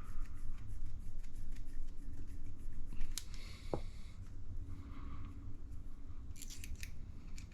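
Light clicks and taps of small RC shock parts being handled and threaded together by hand, with a few louder clicks about three seconds in and again near the end, over a steady low hum.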